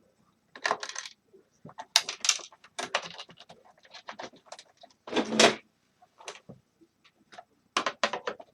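Clicks, clatters and scrapes of hand tools on the metal and plastic parts of a space heater being taken apart, with a longer scraping rattle about five seconds in.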